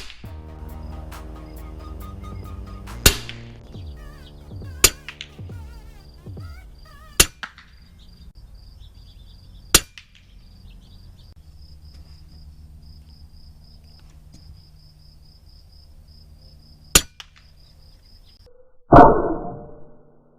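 Air rifle shots: six sharp cracks at uneven intervals over background music. Near the end comes a louder, roughly one-second burst.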